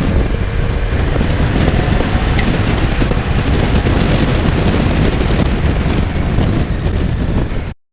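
Steady wind rush on the microphone over a motorcycle's running engine while riding, cutting off abruptly near the end.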